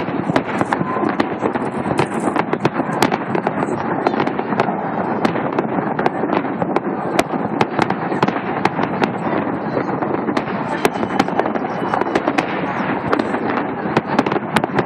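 Fireworks display going off: a dense, continuous crackling of many sharp cracks and pops over a constant background noise.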